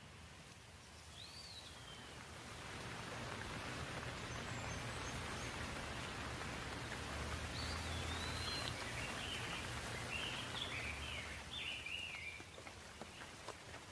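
Songbirds calling outdoors over a rushing wash of noise that swells up about two seconds in and eases off near the end: one whistled call about a second in, then a run of quick chirps in the second half.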